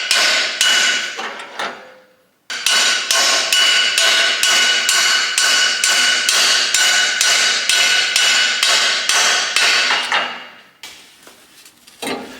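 Hammer blows on steel, about three a second, with a ringing note: knocking an old boiler tube out of a traction engine's tube plate. The hammering pauses briefly about two seconds in and stops about ten and a half seconds in.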